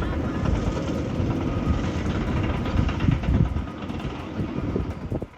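Strong wind from a dust devil buffeting the microphone: a loud, uneven low rumble that drops off sharply near the end.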